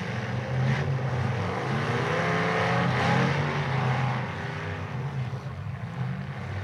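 Demolition derby cars' engines running and revving hard, the pitch rising and falling about two to three seconds in.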